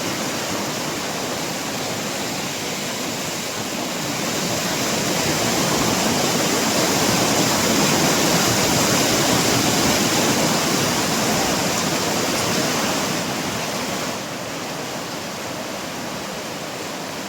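Mountain valley stream rushing, a steady water noise that swells a few seconds in and drops suddenly to a lower level about fourteen seconds in.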